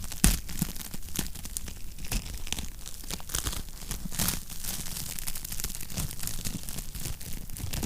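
Wood fire crackling in a fireplace: irregular sharp snaps and pops over a low rumble, with one louder pop just after the start.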